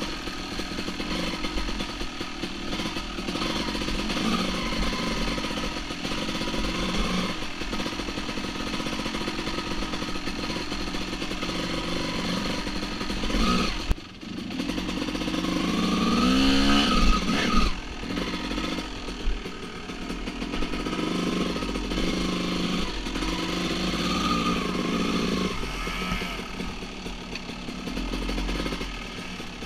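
Two-stroke dirt bike engines running and revving, with a sharp dip about halfway through followed by a hard rev that rises and falls.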